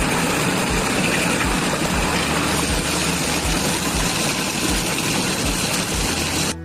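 A machine engine running steadily, with a low regular thump about twice a second; it cuts off abruptly near the end.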